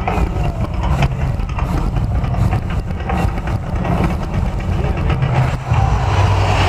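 Deep, steady rumble of the Mirage volcano show's eruption effects, with a few sharp thuds.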